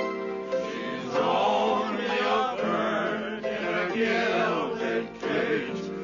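Music: a held piano chord, then a chorus of several voices singing wavering, warbling notes over the accompaniment.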